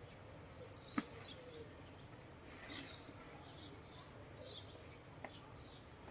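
Faint chirps of small birds calling on and off, with one sharp click about a second in and a fainter tick later.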